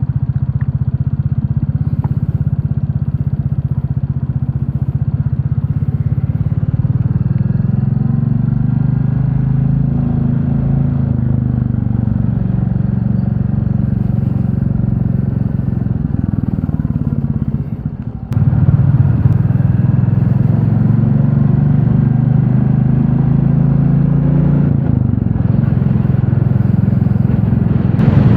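Royal Enfield Classic 350 single-cylinder engine running steadily while riding. Its pitch climbs a little about a quarter of the way in, and about two-thirds through the sound drops briefly before coming back louder.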